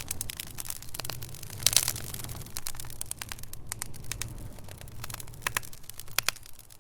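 Wood fire in a fireplace crackling, with irregular sharp pops of burning logs over a steady low rumble, the pops bunching about two seconds in and again near the end.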